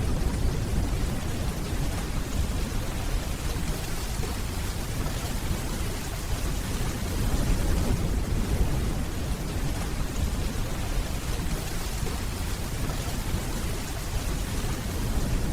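Steady rainfall with a low, rolling rumble of distant thunder underneath, swelling slightly about halfway through.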